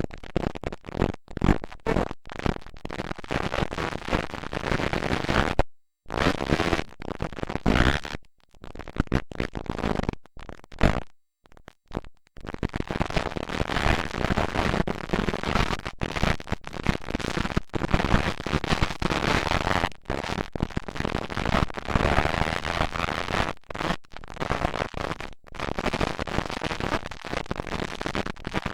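Loud, rough, unpitched noise on a camcorder's microphone. The sound cuts out to silence several times around the middle.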